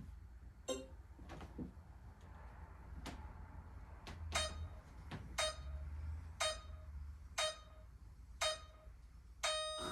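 Electronic race-start countdown of a Scalextric slot-car set: five short beeps about a second apart, then a longer beep near the end that signals the start of the race.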